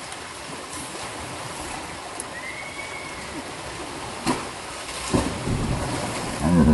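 Steady rushing of waterfall water. Two sharp knocks or splashes come in the second half, and right at the end a short loud voice-like cry.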